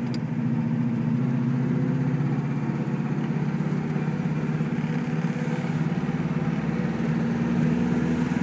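1973 Saab 96's V4 engine running steadily as the car drives along in first gear, heard from inside the cabin.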